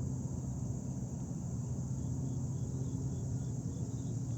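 Insects calling outdoors: a steady high trill with short chirps repeating about three times a second, over a steady low hum.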